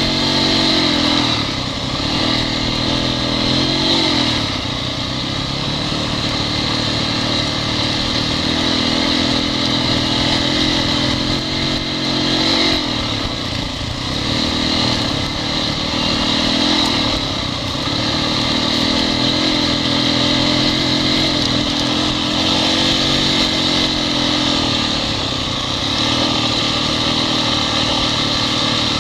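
Honda CRF four-stroke single-cylinder dirt bike engine running under a rider at low to middle revs, its pitch dipping and rising every few seconds as the throttle is closed and opened again.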